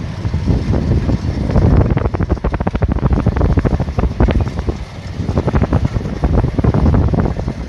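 Rice combine harvester running, with wind buffeting the microphone. The sound is a loud, rough pulsing that dips briefly about five seconds in, then picks up again.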